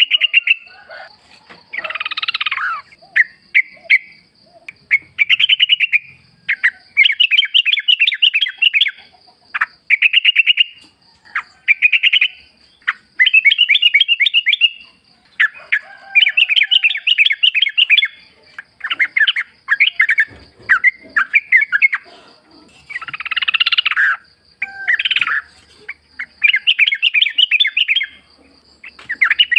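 Yellow-vented bulbul (trucukan) song: short, quick, bubbly chattering phrases, one after another with brief gaps, over a faint steady high-pitched tone.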